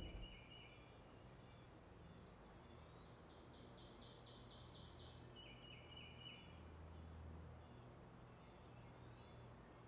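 Faint birdsong in woodland: a bird repeats a short high chirp about twice a second, with a quick trill of rapid notes a few seconds in.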